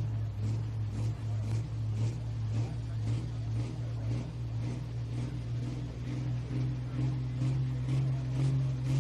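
Pro stock pulling tractor's turbocharged 680-cubic-inch diesel engine running steadily, its pitch slowly rising.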